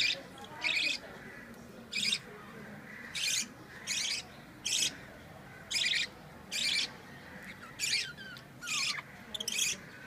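Pet budgerigars giving short, harsh chirping calls, about one a second, with a few quick falling whistles near the end.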